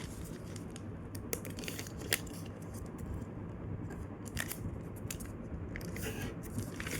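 Sheet of paper being folded and creased by hand: scattered crinkles and crackles over a steady low hum.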